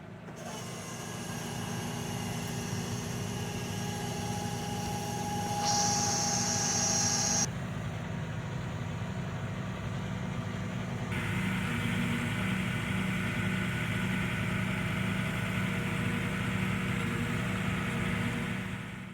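Lorry's diesel engine running steadily, with a brief higher whine added about four to seven seconds in.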